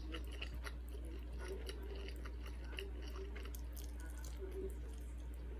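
A person chewing jajangmyeon (black bean noodles): a run of small irregular mouth clicks over a steady low hum.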